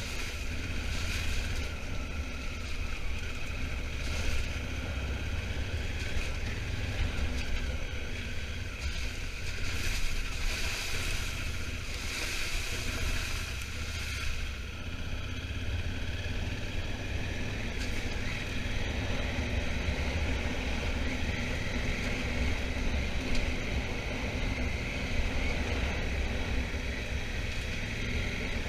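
Twin-cylinder Honda Africa Twin motorcycle engine running at a steady low rumble while riding, with wind noise on the microphone that swells at times, most strongly about ten to fourteen seconds in.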